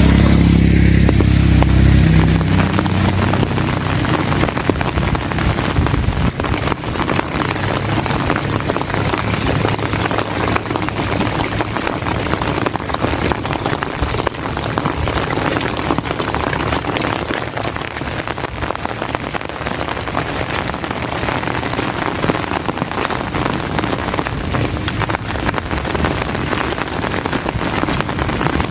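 Heavy rain falling steadily, a dense even hiss of drops. A deep rumble at the start fades away over the first several seconds.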